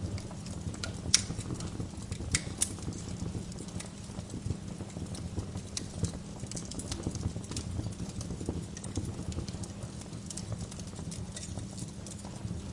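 Wood fire burning in a fireplace: a steady low rumble of the flames with frequent sharp pops and crackles from the burning logs, the loudest pops about a second in and again near three seconds in.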